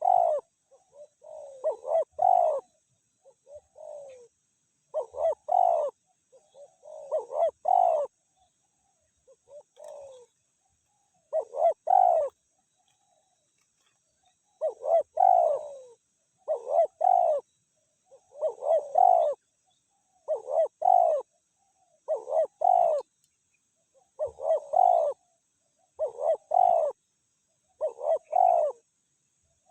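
Spotted dove (tekukur) cooing over and over, in short phrases of two or three coos about every one to two seconds: the calling of a decoy or a wild male answering it during dove luring.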